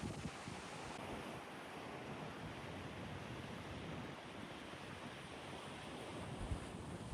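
Rough sea surf breaking against a rocky coast in a strong wind, with gusts buffeting the microphone; one stronger low wind thump about six and a half seconds in.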